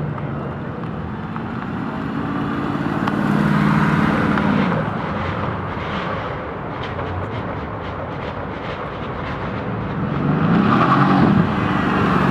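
Car engines: one holds a steady note for a few seconds, then about ten seconds in another accelerates, its pitch rising.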